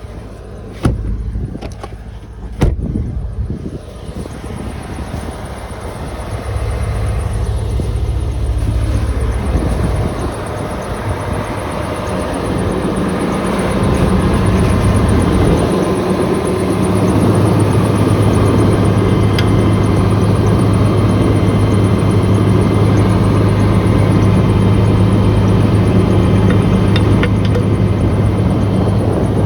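Truck engine running, louder over the first half and then steady, with a low even drone. A few sharp knocks in the first three seconds.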